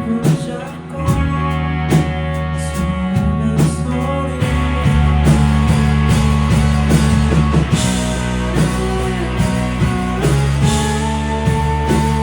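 Live rock band playing: regular drum hits over bass and electric guitar, the sound thickening and growing slightly louder about four and a half seconds in.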